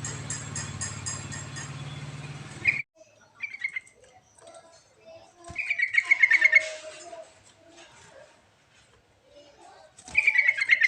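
Yellow-vented bulbul (trucuk) giving short bubbling, chirpy song phrases, the loudest about six seconds in and again near the end. A steady engine hum runs underneath for the first three seconds and cuts off abruptly.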